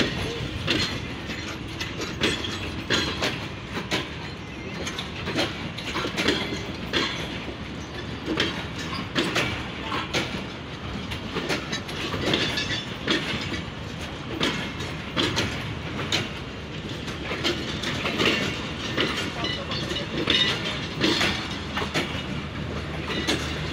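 Passenger coaches of a Pakistan Railways train rolling past, with a steady rumble and repeated sharp clicks of the wheels passing over rail joints.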